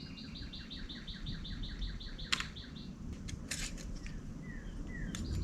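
A songbird's rapid trill of evenly repeated notes, about seven a second, breaking off about two and a half seconds in and starting again near the end. A few sharp clicks sound in the gap.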